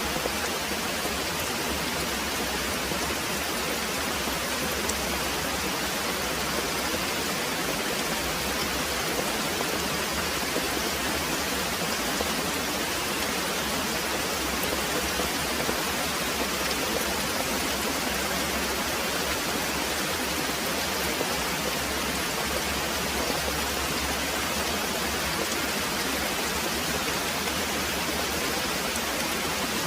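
Very heavy rain pouring steadily as a dense, even hiss, with no thunder in this stretch.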